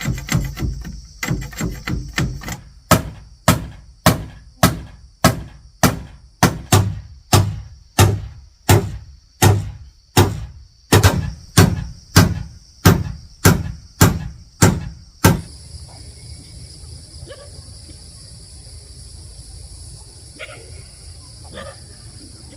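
Heavy thudding blows, at first quick and uneven, then settling into a steady beat of about one blow every 0.6 s. They stop suddenly about fifteen seconds in. High, steady insect drone underneath.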